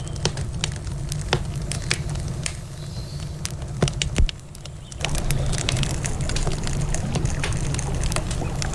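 Wood campfire crackling with many sharp pops over a steady low rumble, one louder pop about four seconds in. About five seconds in, the rushing noise of a river swells underneath the crackle.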